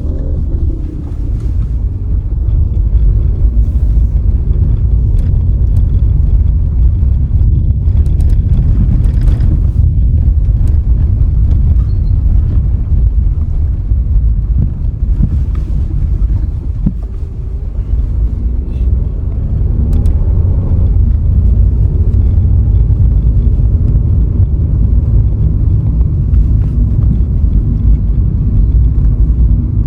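Steady low rumble of a car driving along a road, mostly road and wind noise, with a faint rising and falling engine tone about twenty seconds in.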